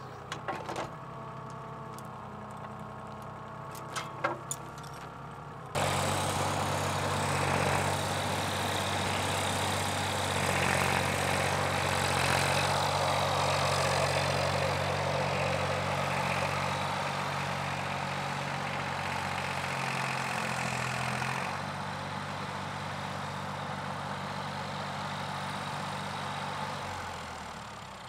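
Excavator diesel engine running steadily, with a few sharp knocks in the first few seconds. About six seconds in it suddenly gets louder, with added noise over the engine note. It eases back down about twenty-one seconds in and fades near the end.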